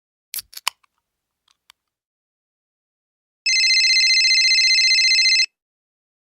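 A few sharp clicks, then, about three and a half seconds in, a loud, high, steady two-tone ring with a fast flutter that lasts about two seconds and cuts off abruptly: a stock editing sound effect.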